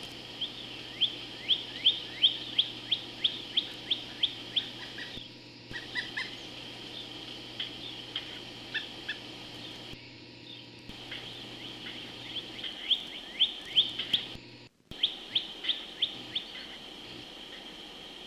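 Pileated woodpecker calling: rapid series of short, downward-slurred notes, several a second, in three bouts with scattered single notes between. The sound cuts out briefly three times.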